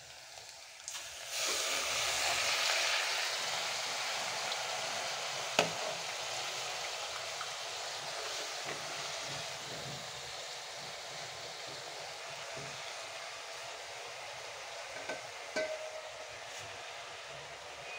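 Wet, freshly washed fenugreek leaves sizzling as they hit hot oil with fried onions and chillies in a steel pot: the sizzle starts suddenly about a second and a half in and slowly dies down as the leaves cool the oil. A single sharp knock comes about five and a half seconds in, with a few small clicks near the end.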